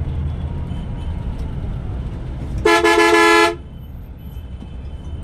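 One loud vehicle horn blast lasting under a second, made of two close tones, heard over the low rumble of the bus engine and road.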